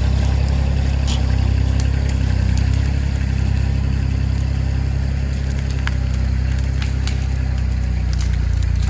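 Kioti CK2610 compact tractor's three-cylinder diesel engine running steadily while pulling a log, with a few light clicks over the drone.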